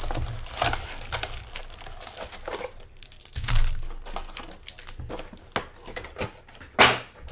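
Trading-card pack wrappers crinkling and tearing as packs are opened by hand, an irregular run of crackles with a few louder rips.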